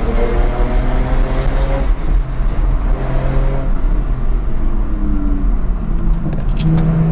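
BMW 125i's 3.0-litre naturally aspirated straight-six pulling under acceleration, heard from inside the cabin. The engine note rises, breaks off about two seconds in and again near the end, then climbs again. A steady low road and wind rumble runs underneath.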